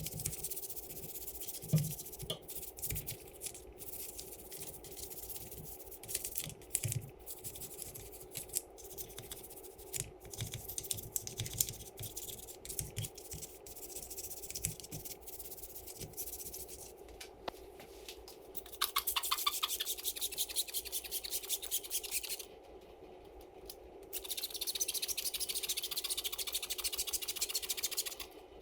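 Hand scrubbing of caked-on grime off a Honda CRF150R engine during degreasing: irregular scraping and rubbing strokes, then two stretches of fast, steady back-and-forth scrubbing near the end.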